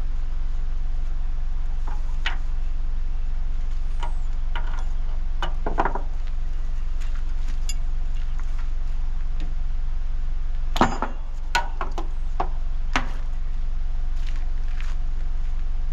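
An engine running steadily, with scattered knocks and clanks of things being handled, the loudest cluster about 11 seconds in.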